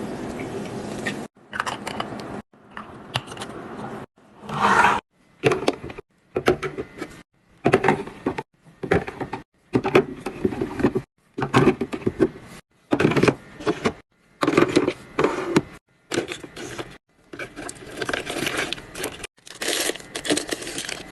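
Items being handled and stocked into a mini fridge: quick clinks, rustles and scrapes of packaging and containers, cut into many short snippets under a second each with abrupt silent gaps between them.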